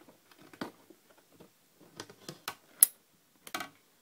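Light, irregular handling clicks and taps, the sharpest just before three seconds in, as a cricket is offered to a mantis.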